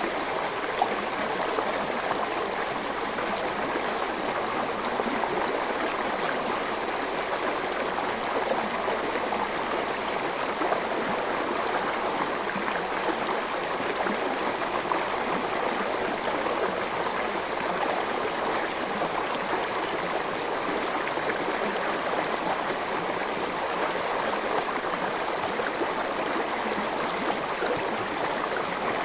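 A forest stream running over rocks: a steady rush of flowing water with small splashes and gurgles.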